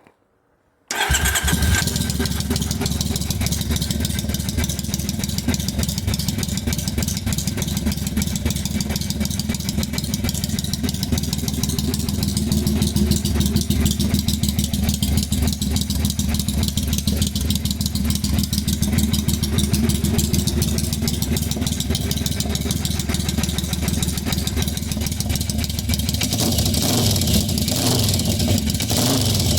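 A 2002 Triumph Bonneville America's parallel-twin engine starts up suddenly about a second in, then idles steadily through aftermarket Motea exhaust pipes.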